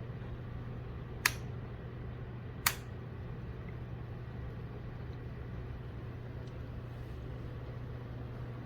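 Steady low hum of a small appliance running, with two sharp clicks about a second and a half apart, a little over a second in.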